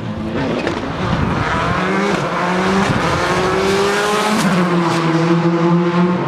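Rally car engine revving hard under acceleration, its pitch climbing for a few seconds, then settling to a steadier high note about four and a half seconds in.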